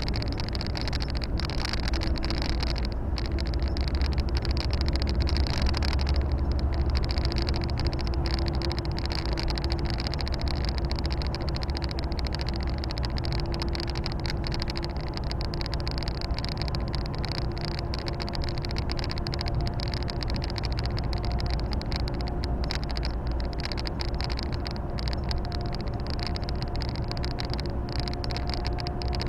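Volvo FH 460 truck heard from inside its cab while driving: the diesel engine running steadily under road and tyre noise, with a faint whine that rises slowly in pitch over the last dozen seconds.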